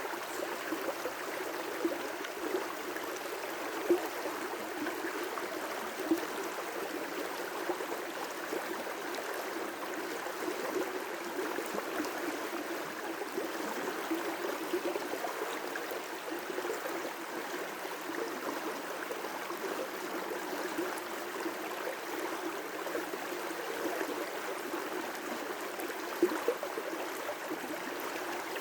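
River rapids rushing steadily, with a few brief, sharper splashes.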